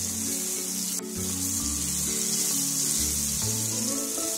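Raw mango cubes frying in hot oil in a frying pan, a steady sizzle while they are stirred with a spatula. Background music plays along, with a brief click about a second in.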